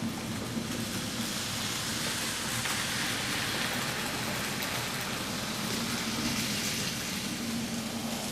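HO scale model train running along the track: a steady rolling hiss from the wheels on the rails over a low electric motor hum, growing louder through the middle as it passes close, then easing off.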